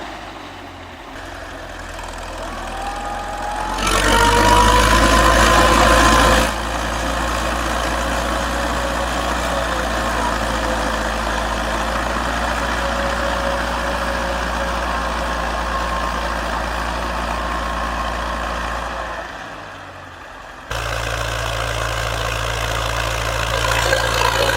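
Farm machine engine running steadily, heard across several abrupt cuts, with a rising whine a few seconds in.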